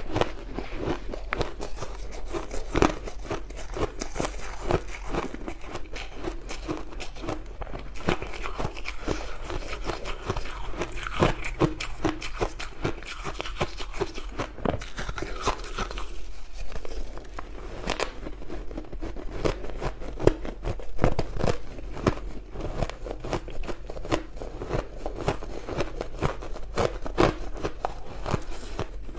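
A person biting and chewing crushed ice close to the microphone: dense, irregular crunching and crackling, with a brief lull a little past halfway.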